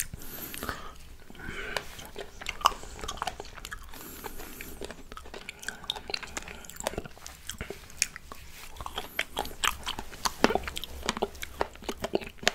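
A person chewing fresh soft fruit, blackberries among it, close to the microphone: irregular wet mouth clicks and juicy squishing.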